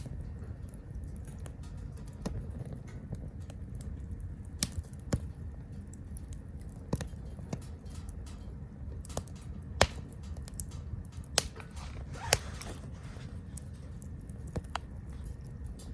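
Small wood fire burning in a Captain Stag Kamado Smart Grill B6, crackling with irregular sharp pops over a low steady rumble, with a short hiss about twelve seconds in.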